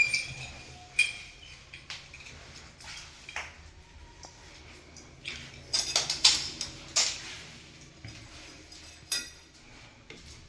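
Irregular sharp clinks and knocks of hard objects being handled, most of them bunched about six to seven seconds in.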